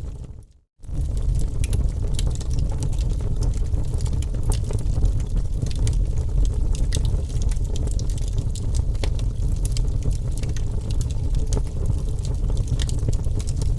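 Wood fire crackling: scattered sharp snaps and pops over a steady low rumble of burning. The sound fades out and drops away for a moment under a second in, then comes straight back.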